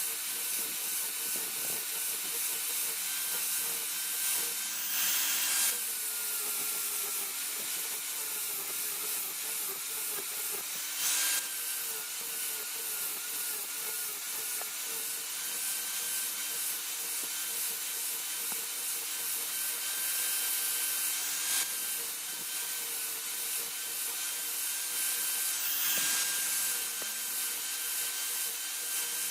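Electric grinder running steadily with a hissing abrasive sound as steel for the khukuri blade is worked against it. There are a few brief louder surges, and at one of them, about five seconds in, the motor's pitch drops as it takes the load.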